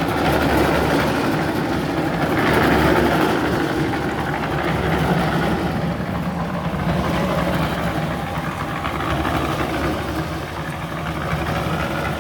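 A large engine running at a steady speed.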